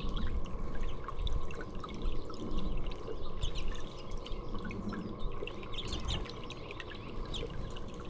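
Water dripping and trickling in quick, irregular ticks, with faint small-bird chirps mixed in, over a steady low rumble.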